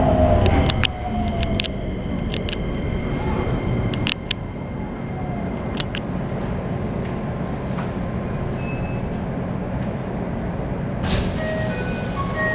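Keikyu New 1000 series electric train heard from inside the car: the whine of its Toyo IGBT-VVVF inverter falls in pitch over the first two seconds and fades, leaving a steady rumble with scattered sharp clicks. A high hiss sets in near the end.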